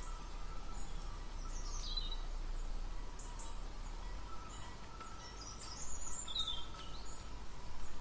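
Steady outdoor background noise with a faint steady hum, and a few short high bird chirps about two seconds in and again around six seconds in.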